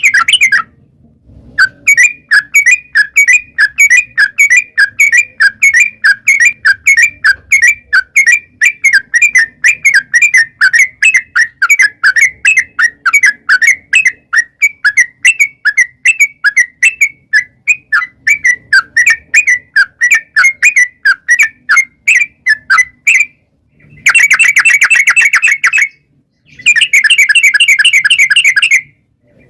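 Yellow-vented bulbul (trucukan) calling: a long run of quick, sharp repeated chirps, a couple a second, then after a short pause two faster, denser bursts of chirping, the long rapid 'ropel' song used as a lure to make other trucuk birds answer.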